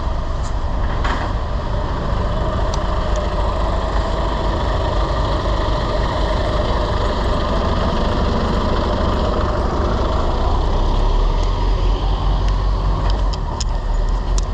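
Wind rushing over a bike-mounted action camera's microphone while cycling in city traffic, with a steady low rumble of motor vehicles that swells near the end.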